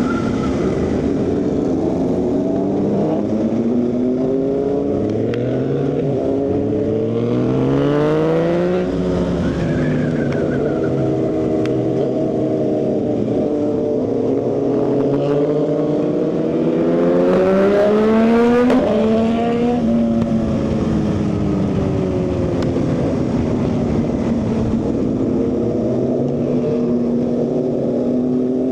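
Motorcycle engine and exhaust running under load on a hill climb, the revs rising twice and dropping back between, as on gear changes and throttle through bends.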